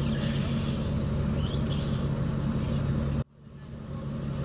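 Fishing boat's engine running with a steady hum. About three seconds in, the sound cuts out abruptly and swells back in, as at an edit.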